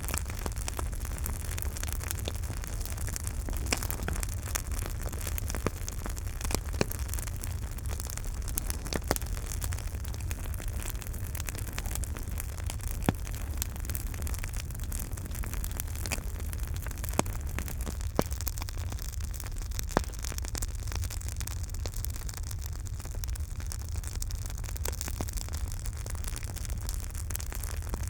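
Campfire burning: a steady hiss over a low rumble, dense with small crackles and a few louder sharp pops scattered through.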